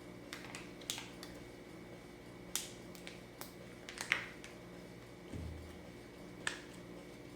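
Faint, scattered sharp clicks and taps from small objects being handled by hand, about ten at irregular spacing, with a soft low bump about five seconds in.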